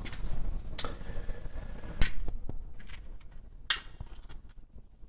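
Firewood being handled: a few sharp wooden knocks and clatters with small ticks between them, the loudest about two seconds in.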